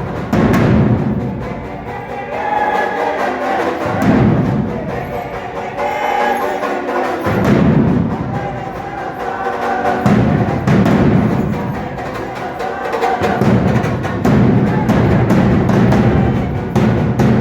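Drums beating a fast, steady rhythm for a traditional Mexican danza. The deep drum drops out for a second or two a few times, leaving a higher pitched line over the beat.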